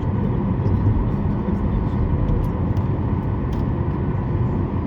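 Steady low cabin rumble inside a Boeing 737 MAX 8 on the ground after landing, from its CFM LEAP-1B engines at idle and the air conditioning, with a faint steady tone and a few light ticks above it.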